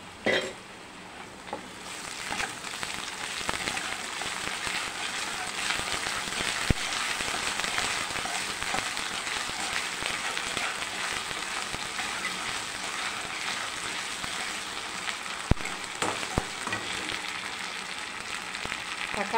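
Chopped onions, garlic and ginger-garlic paste frying in hot oil in a non-stick kadai while being stirred with a spatula: a steady sizzle that grows louder about two seconds in, with a few sharp clicks along the way.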